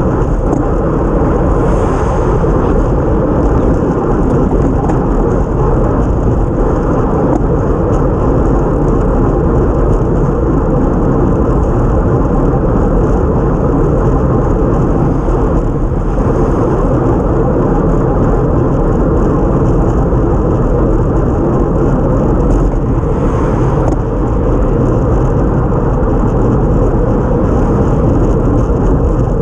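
Steady wind noise buffeting a bike-mounted action camera's microphone at racing speed, mixed with tyre hiss on a wet road.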